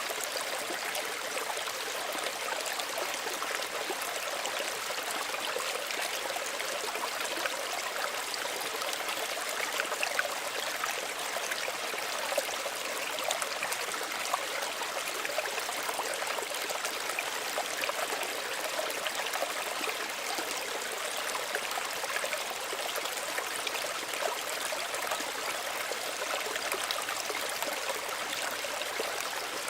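Small stream of running water, trickling and splashing steadily over stones, with little splashes flecking through it.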